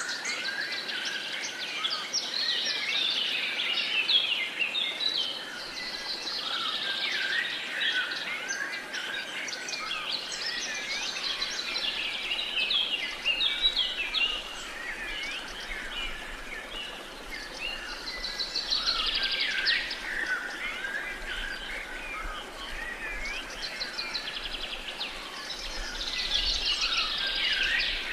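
Many birds singing and chirping at once in a dense chorus, with trills and chirps coming in waves, over a faint steady hiss of outdoor background noise.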